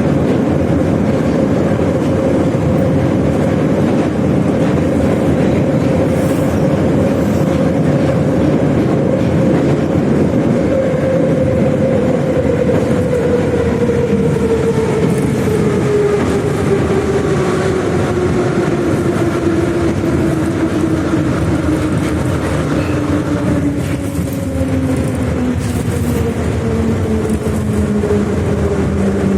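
81-717/714 "Nomernoy" subway train heard from inside the car while running: loud, steady rumble of wheels and running gear. Over it, a motor whine glides steadily down in pitch through the second half as the train slows.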